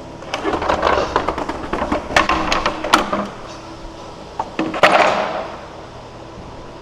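Wooden pallet being handled and set down: a run of knocks and clatter for about three seconds, then one heavier thud near the end of the handling.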